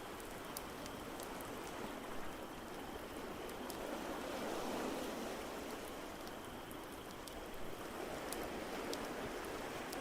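Layered ambience of ocean waves washing steadily, swelling about halfway through, with scattered sharp crackles of a wood fire.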